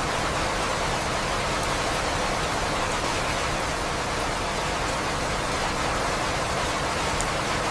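Steady rain falling, an even hiss with no rise or fall.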